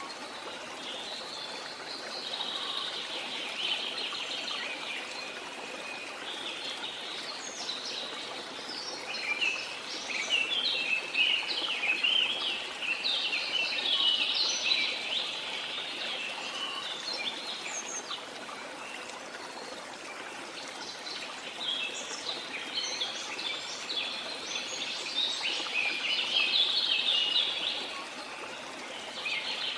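Many birds chirping and singing together in overlapping bouts, over a steady rush of flowing water.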